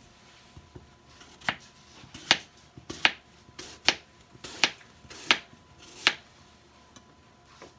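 Kitchen knife chopping on a cutting board: seven slow, even strokes about three-quarters of a second apart, then stopping.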